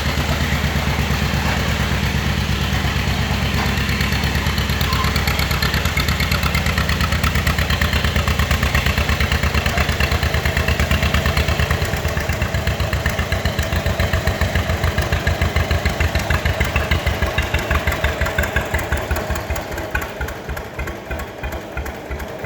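1945 John Deere BO Lindeman crawler's two-cylinder engine running with a steady, evenly pulsing beat. In the second half the beat slows, and near the end it turns quieter with the firing pulses further apart, as the engine drops to a slow idle.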